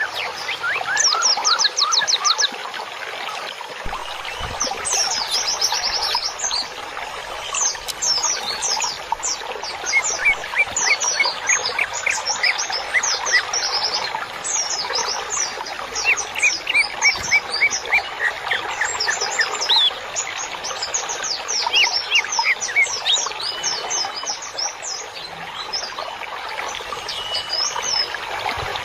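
Many small songbirds chirping and twittering together in rapid, repeated bursts of short high notes, some sweeping downward, over a steady background wash of more birdsong.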